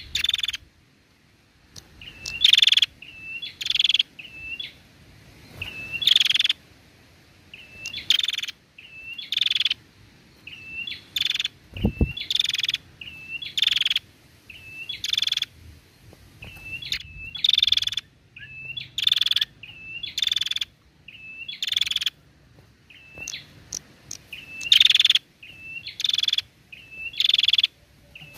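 Female prenjak calling over and over: a short hooked chirp followed by a louder, harsh buzzing note, repeating about once a second. A brief low thump sounds about midway.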